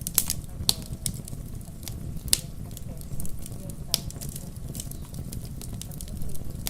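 Wood fire crackling in a fireplace: sharp pops at irregular moments over a steady low rumble.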